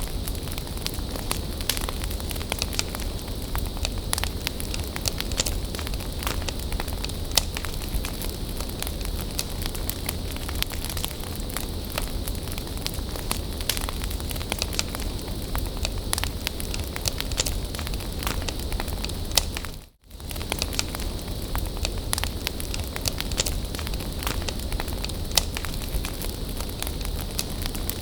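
Wood bonfire burning, with a steady hiss and frequent sharp crackles and pops. The sound cuts out for a moment about two-thirds of the way through, then resumes.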